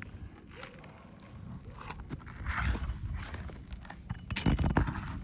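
Irregular knocks and scuffs of people working on an asphalt shingle roof, with the loudest cluster of knocks about four and a half seconds in, over a low rumble.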